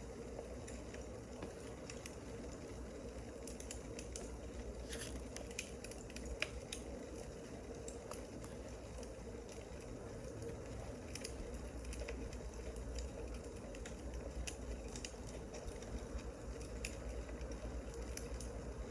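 Burning firewood crackling: irregular sharp pops and snaps over a steady low hiss, one pop standing out about six and a half seconds in.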